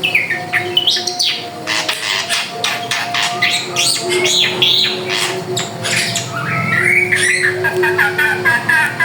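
Drongo singing busily: a quick, varied stream of whistles, chirps, glides and harsh notes, turning into a fast run of repeated chirps near the end. A low steady tone comes and goes underneath.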